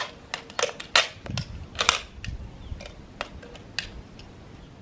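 Irregular series of sharp clicks and knocks, about a dozen over four seconds, from hard plastic parts being handled.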